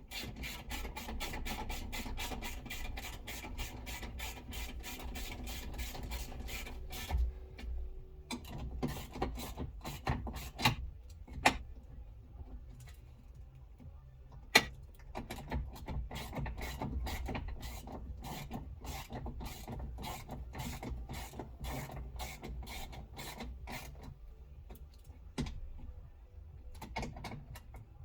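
Socket ratchet clicking as it is worked on fixings in a car door: quick, even clicks for the first seven seconds or so, then slower, uneven runs of clicks with a few sharper knocks.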